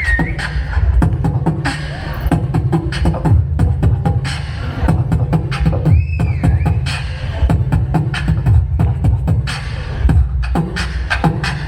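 Live human beatboxing of a South Indian-style beat: a fast, steady stream of mouth-made kick, snare and click sounds over heavy bass, with a few short pitched vocal sweeps mixed in.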